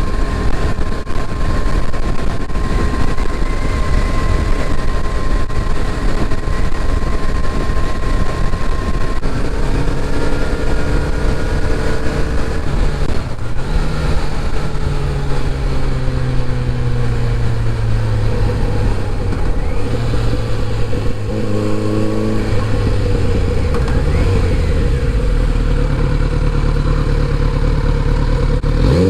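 Kawasaki Z900RS inline-four motorcycle riding with heavy wind rush at first. Then the engine note drops in several steps as it slows and shifts down, runs low for a few seconds, and begins to rise again near the end.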